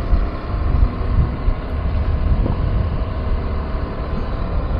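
KTM 390 Adventure's single-cylinder engine running steadily while riding, mixed with wind rush, heard through a microphone inside the rider's helmet.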